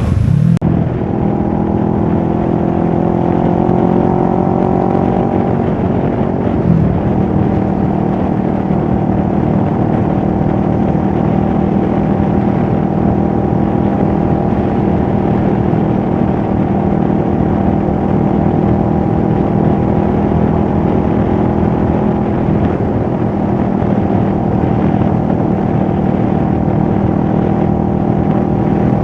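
2023 CFMOTO 650NK motorcycle's parallel-twin engine and exhaust running at a steady engine speed. The pitch rises slightly over the first few seconds, a brief change comes at about seven seconds, and then it holds steady.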